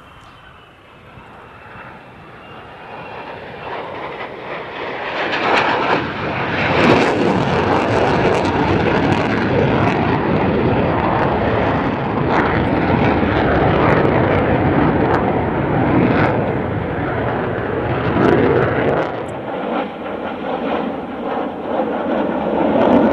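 Jet engine noise from F-35 Lightning II fighters, each powered by a Pratt & Whitney F135 afterburning turbofan, flying past. The sound builds from faint to very loud over about six seconds, then stays loud and steady, with small swells.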